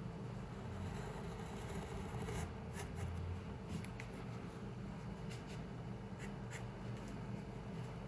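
Pencil strokes scratching on paper in short, irregular bursts while drawing, over a steady low room hum.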